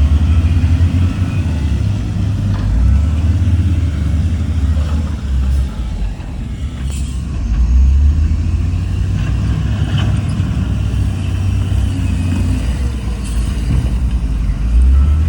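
Diesel engine of heavy earthmoving equipment running under varying load: a deep, steady rumble that eases off about five to seven seconds in and builds again about eight seconds in.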